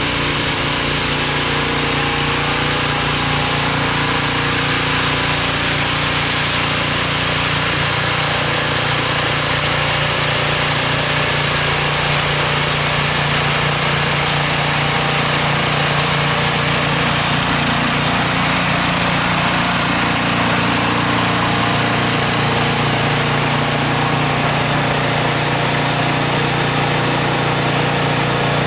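Three-stage snow blower's small engine running steadily at an even speed.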